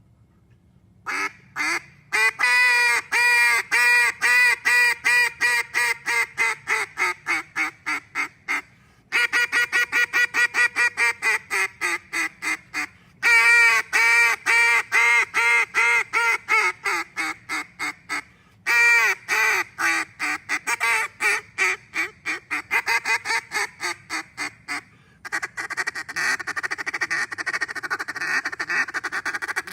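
Fat Lady Game Calls D2D duck call, an open-water, long-range call, blown by mouth in several long series of loud quacks. Each series starts high and loud and tails off lower and softer. Near the end it breaks into a fast, continuous run of short notes.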